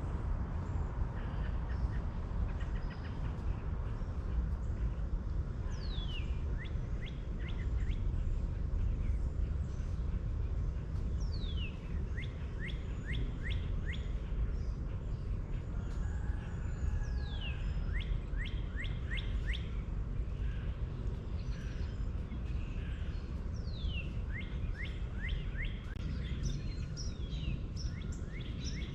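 A songbird singing the same short phrase over and over, about every five or six seconds: a falling whistle, then a quick run of four to six short notes. A steady low rumble sits underneath.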